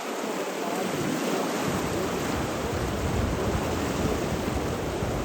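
Steady rushing water noise, rain, stream or surf, with a deep rumble filling in about a second and a half in.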